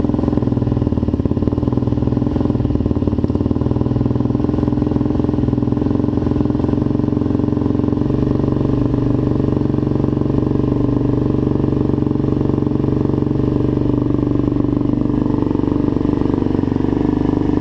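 Suzuki LTZ400 ATV engine, a single-cylinder four-stroke fitted with a 440 big bore kit, idling steadily just after a cold start while it warms up.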